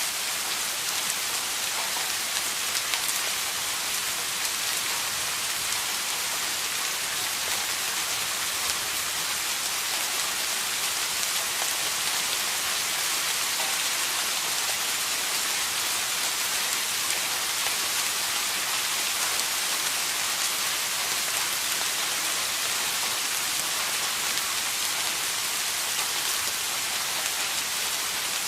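Steady rain falling, a constant hiss of drops on a surface with a fine pattering of individual drops.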